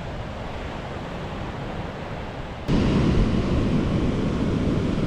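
Steady ocean surf and wind noise. About two and a half seconds in it jumps suddenly louder, with heavy low wind buffeting on the microphone.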